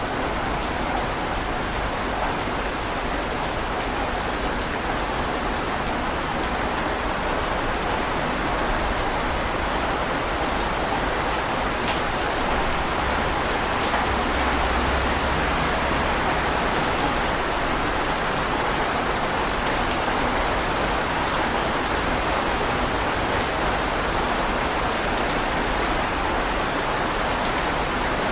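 Steady heavy rainfall: a dense, even hiss of rain on a surface, with small drop ticks and a faint low rumble swelling a little about halfway through.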